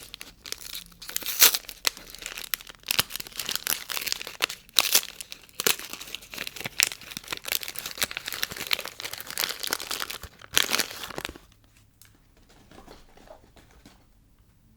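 Soap packaging crinkled and torn open by hand: a dense run of crackles and rustles that stops about eleven seconds in, followed by faint, quiet handling.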